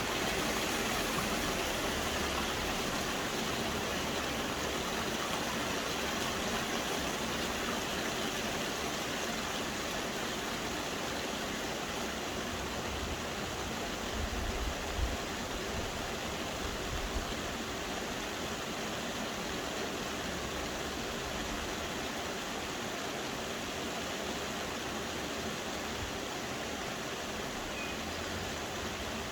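Soft rain falling steadily, an even hiss with no single drops standing out. A few brief low bumps come about halfway through.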